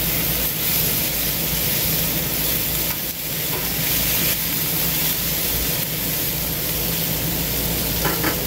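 Sliced bell peppers sizzling in oil on a hot Blackstone 22-inch griddle top, turned with a metal spatula, over the steady hum of a rooftop air conditioner.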